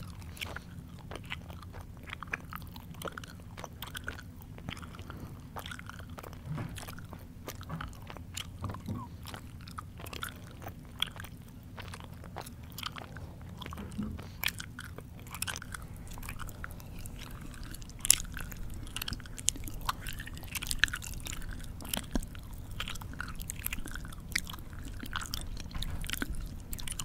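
A person chewing food close to the microphone with the mouth open: irregular smacking and crunching clicks, over a faint steady low hum.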